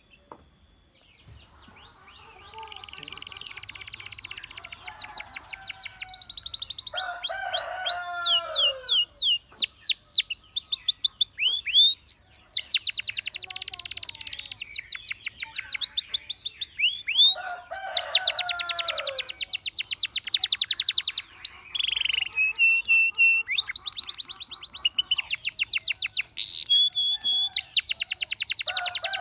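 Domestic canary singing, starting about two seconds in: long rolling trills and fast runs of repeated rising and falling notes, with very high notes. Twice a lower run of falling notes cuts in.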